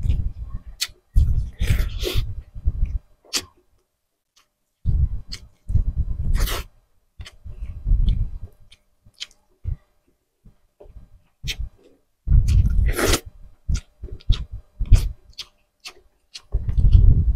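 A person eating grilled tuna jowl with his hands, close to the microphone: chewing and wet lip smacks in bursts with short pauses between, dotted with sharp mouth clicks and a few brief hissing sucks.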